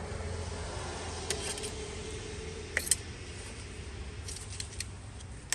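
Small plastic clicks and rattles of an aerosol can of throttle-body cleaner being handled as its extension-straw nozzle is fitted, the sharpest click just under three seconds in, over a steady low hum.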